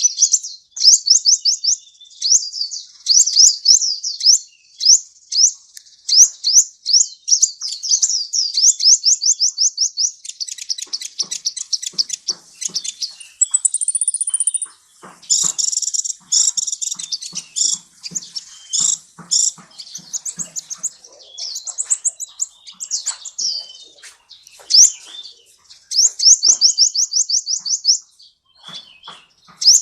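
Sunbird (the bird Indonesian keepers call kolibri) singing: fast trills of high, sweeping chirps in runs with short breaks, with a brief thin high whistle about halfway through.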